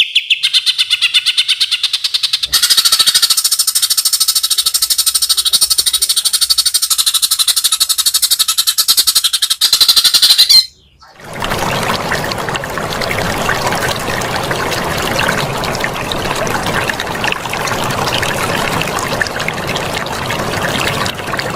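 Recorded songbird calls: rapid repeated high notes running into a dense, fast trill, then after a brief break about 11 seconds in, a harsh, rasping chatter.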